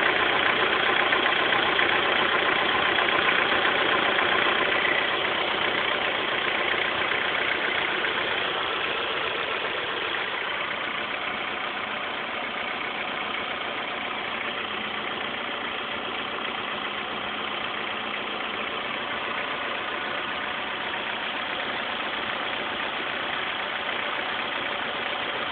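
2006 Honda S2000's 2.2-litre four-cylinder engine idling with a rattle, which the owner suspects is the timing chain auto-tensioner (TCT) failing. Somewhat louder for the first several seconds, then steady.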